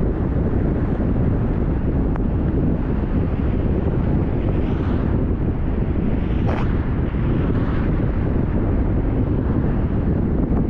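Wind buffeting the microphone over the steady rumble of a moving vehicle, with a brief swish about six and a half seconds in.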